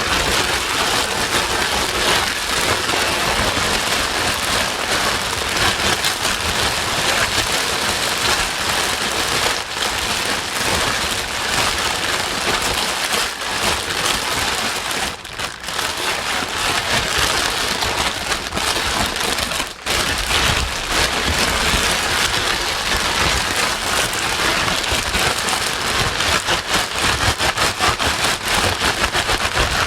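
Steady white noise with the sound of heavy rain: a dense, even hiss across all pitches with a fine pattering texture. It briefly drops in level twice, about 15 and 20 seconds in.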